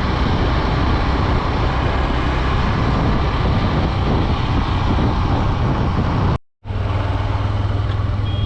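Honda Dream 110 110cc commuter motorcycle riding along a road: the engine running under heavy wind and road noise. The sound cuts out abruptly for a moment about six and a half seconds in, then resumes with a steadier low hum.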